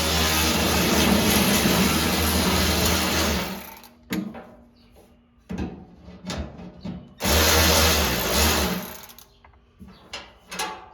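Electric drill running in two runs to back out bolts: one of about three and a half seconds, then a shorter one about seven seconds in. Small clicks and knocks come between the runs.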